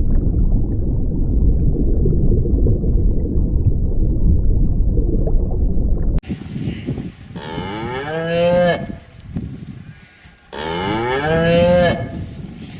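A steady low rumbling noise for about six seconds cuts off suddenly. It is followed by cattle mooing twice, two long calls a couple of seconds apart.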